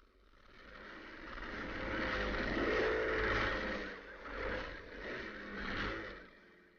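Motorcycle engine running hard as it passes close, swelling to its loudest about three seconds in, then wavering and fading away near the end.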